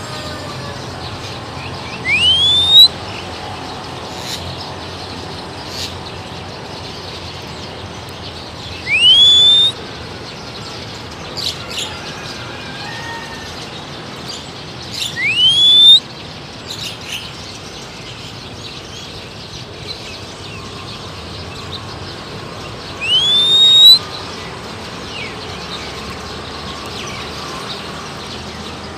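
Four loud rising whistles, each under a second and several seconds apart, whistled to a wild Oriental magpie-robin, with short high bird chirps between them.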